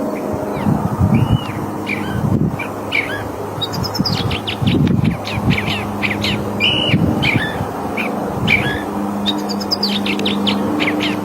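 California thrasher singing a long run of varied short phrases: whistled arcs, chirps and quick chattering notes, with a dense run about four seconds in. Underneath is a steady low rumble and hum.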